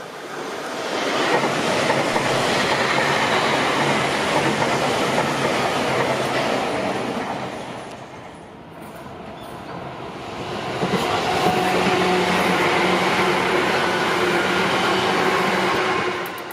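A train running past on the rails, its wheels clattering, loud in two swells with a dip about halfway through. A steady electric hum rides through the second swell.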